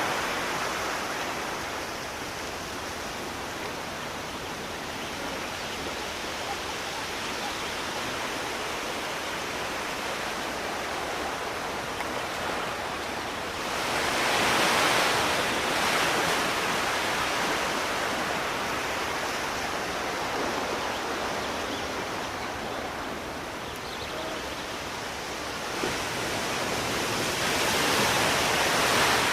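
Sea waves washing ashore in a steady hiss, with two bigger waves surging and breaking, one around the middle and one near the end.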